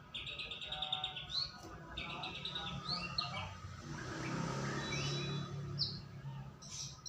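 White-rumped shama (murai batu) singing: fast trills of quickly repeated notes and short whistles that slide up and down, with a rougher, noisier passage about four seconds in.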